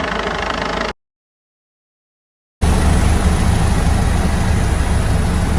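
Helicopter in flight, heard from on board: a steady loud run of rotor and turbine noise with a low, even beat and a thin high whine. About a second in the sound drops out to dead silence for under two seconds, then comes back at full level.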